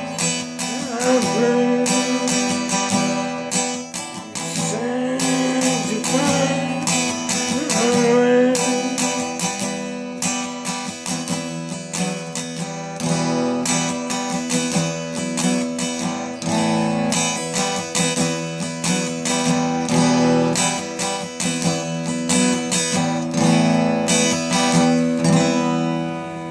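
Music: a strummed acoustic guitar playing steadily, fading out near the end.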